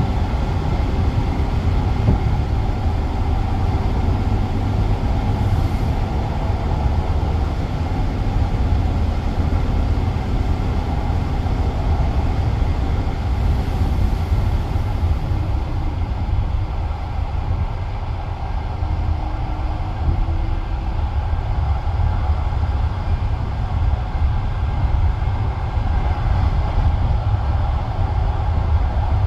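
Passenger railway coach running along the track: a steady low rumble of the wheels on the rails, heard from inside the carriage.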